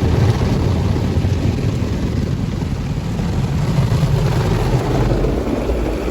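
High-pressure water jets of a touchless automatic car wash spraying the car, heard from inside the cabin as a loud, steady rushing rumble.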